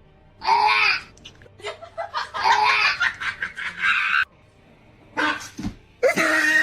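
A person laughing loudly in several bursts, the longest lasting about two seconds.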